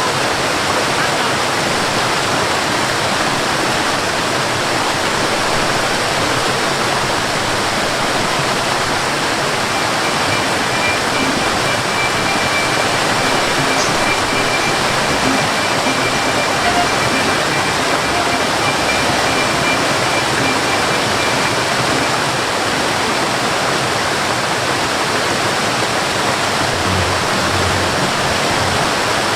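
Steady, loud rushing noise like running water, unbroken and even throughout, with a faint thin high tone through the middle.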